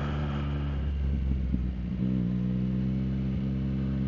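Motorcycle engine idling steadily at a constant pitch, with a few knocks and handling noises about a second in.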